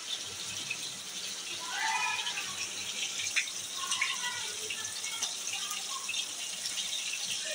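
Chapli kababs shallow-frying in hot ghee in a pan, a steady sizzle, with a few sharp clicks of a metal spatula against the pan.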